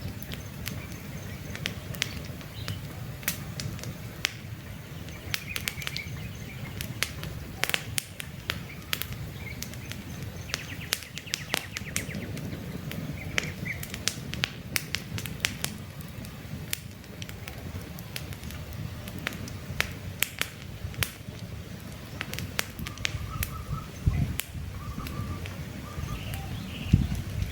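Wood campfire crackling with frequent sharp pops over a low rumble, with short bird chirps now and then.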